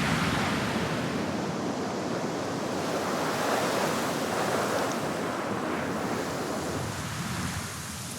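Wind blowing, an even rushing noise that swells and eases slowly.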